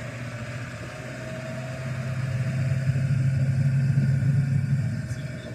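Vehicle engine running with a steady low hum, getting louder through the middle and easing off near the end.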